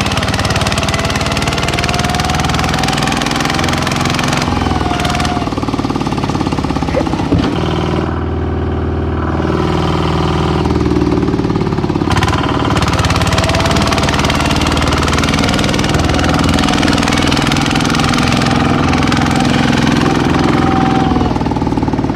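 Small tractor's engine running under way with a fast, even beat; the sound thins out briefly about eight seconds in, then picks up again.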